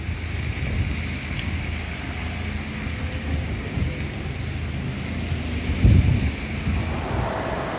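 Strong wind buffeting the microphone as a low, steady rumble, with a harder gust about six seconds in.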